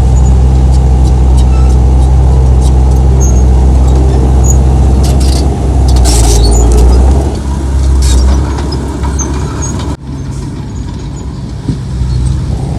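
Heavy-equipment diesel engine running loud and steady under load, with scattered clanks and rattles. It eases off about seven seconds in and drops quieter after an abrupt break near ten seconds.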